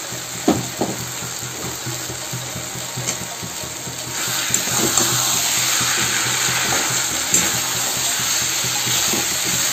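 A couple of knocks near the start as fried potato cubes drop into the pan, then a steady sizzle of masala gravy frying in a kadhai. The sizzle grows louder about four seconds in, as the potatoes and mushrooms are mixed in.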